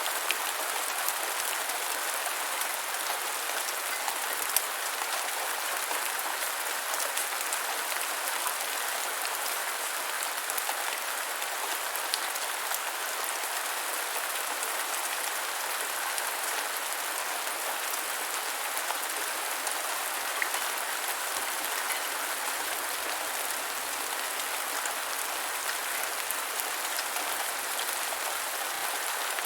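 Gentle steady rain falling, a constant hiss with scattered sharper drip taps.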